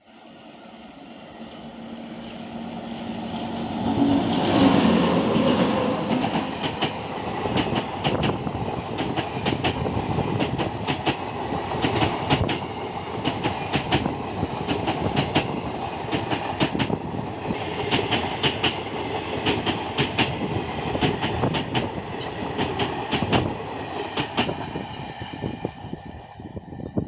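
Indian Railways train passing at speed. The sound builds as the locomotive approaches and peaks about four to five seconds in. Then comes a long run of wagons, with the wheels clicking repeatedly over the rail joints, fading near the end.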